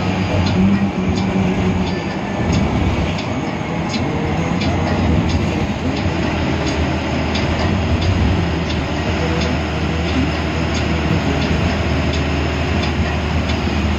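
Cabin noise of a moving economy air-conditioned bus: a steady low engine drone and road noise, with frequent light clicks and rattles.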